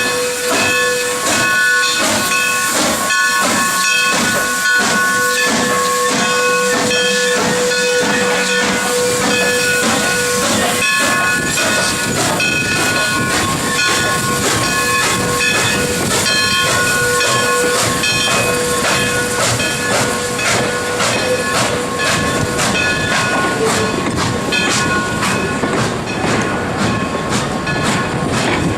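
Southern Pacific 4-6-2 Pacific steam locomotive No. 2472 working, its exhaust chuffing in a regular beat over a constant hiss of steam. A steady chord of whistle-like tones sounds over the chuffs and fades out about three-quarters of the way through.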